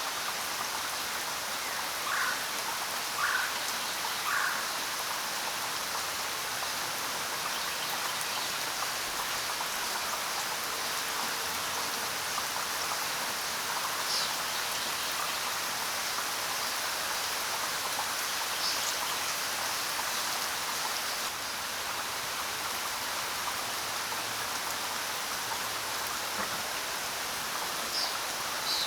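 Steady rain falling, with a few short bird chirps: three evenly spaced calls a couple of seconds in, then a few brief high chirps later on.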